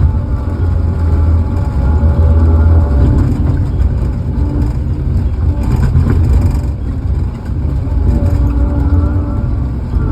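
A large engine running steadily, its pitch rising and falling as the revs vary. A brief hiss about six seconds in.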